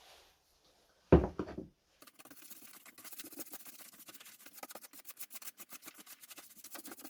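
A loud thump about a second in, then rapid back-and-forth hand rubbing strokes on wood, many strokes a second, that keep going.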